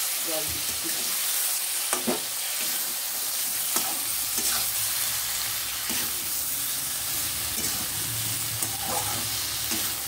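Katla fish head and potato chunks frying in spiced oil in a metal kadai, sizzling steadily while a steel spatula stirs and turns them, scraping and clicking against the pan several times.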